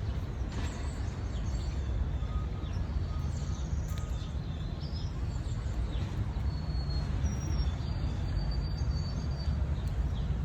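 Small songbirds chirping, with brief high whistles scattered through, over a steady low rumble.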